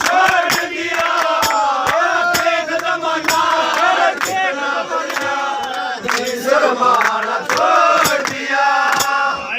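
Haryanvi ragni sung by male voices over a steady, regular drum beat.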